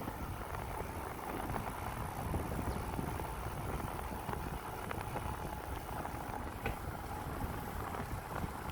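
Steady wind and rolling noise from a bicycle being ridden: a low rumble of wind on the microphone under an even hiss, with a few faint ticks.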